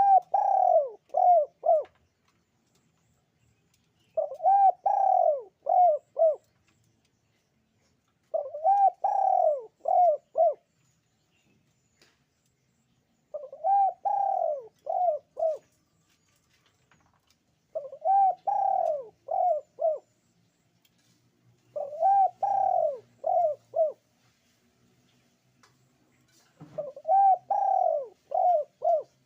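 Puter pelung, a cooing breed of barbary dove, cooing in repeated phrases, one about every four to five seconds. Each phrase is a longer first coo followed by two or three short coos, seven phrases in all.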